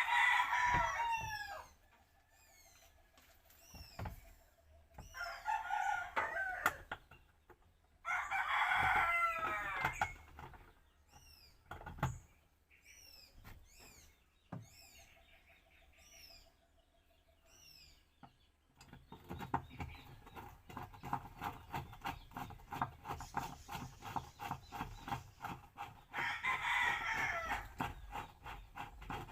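Roosters crowing four times, each crow lasting a second or two and falling off at the end, with faint chirps of small birds between them. A fast rhythmic rattle runs through the last third.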